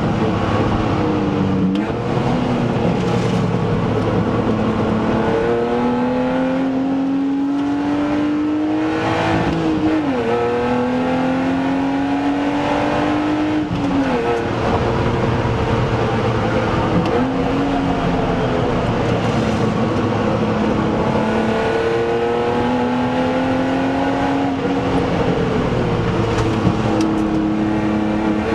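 BMW Z3 2.8 Coupé's straight-six engine under hard acceleration, heard from inside the cabin: its pitch climbs in long sweeps and drops sharply several times at the gear changes, over steady road and wind noise.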